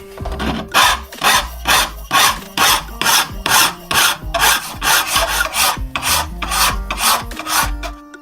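Hand file worked back and forth in quick, even strokes, about three a second, each stroke a rasping scrape.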